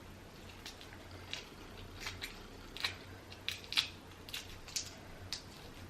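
Boiled shellfish being peeled and eaten by hand: an irregular run of small, sharp, wet crackles and clicks from the shell and mouth, loudest a little past halfway.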